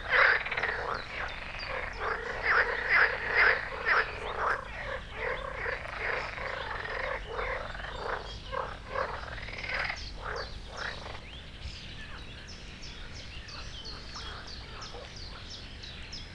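Frogs croaking in a chorus of rapid, repeated calls, loud for the first ten seconds or so and then fainter.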